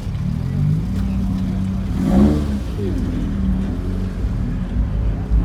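Car engine running, with a brief rev that peaks about two seconds in.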